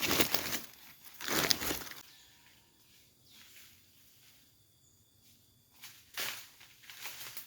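Rustling and crunching of dry forest litter being disturbed, in three bursts: at the start, about a second in, and near the end.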